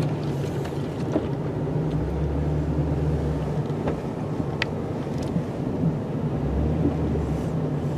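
Plow truck's engine running while plowing snow, a deeper low hum swelling in twice, about two seconds in and again near the end, with one short sharp tick about halfway through.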